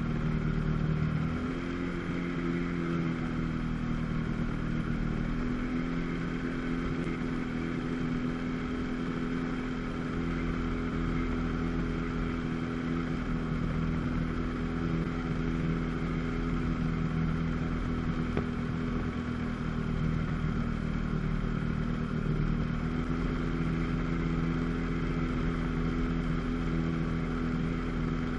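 1997 Sea-Doo GTS personal watercraft's 720 two-stroke twin engine running steadily under way. Its engine speed shifts a little about a second and a half in and again near the end.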